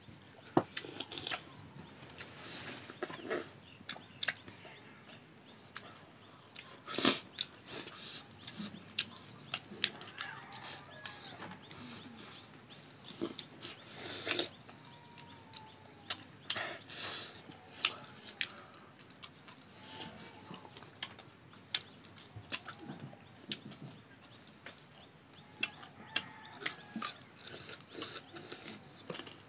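Close-miked mukbang eating sounds: wet chewing and lip-smacking from two people eating with their hands, in a run of irregular short smacks and clicks.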